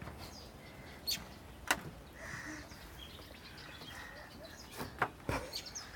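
Birds chirping faintly: a few short, sharp chirps scattered through, with fainter calls in between.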